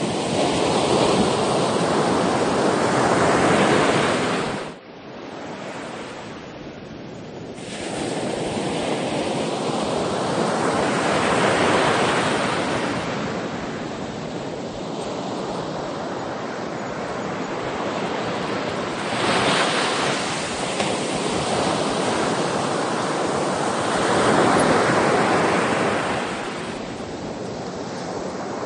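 Ocean waves breaking and washing ashore, the surf swelling and ebbing every few seconds. The sound drops abruptly about five seconds in and builds back up some three seconds later.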